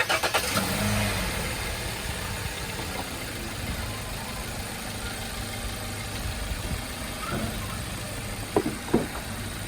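2012 Hyundai Sonata's four-cylinder engine running steadily at idle after an oil change, with two short sharp knocks near the end.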